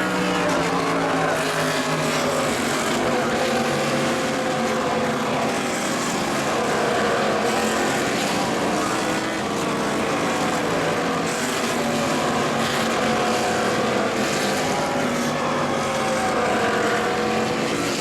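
A field of Indy Lights open-wheel race cars running at a race start on a wet track. Many engine notes rise and fall and overlap over a steady hiss.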